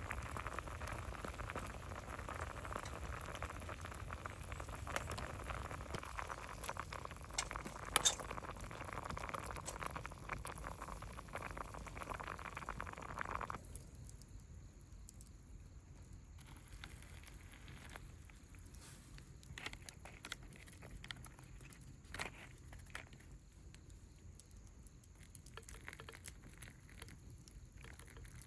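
Water boiling with a steady bubbling hiss that stops abruptly about halfway through, followed by scattered light clicks and crackles.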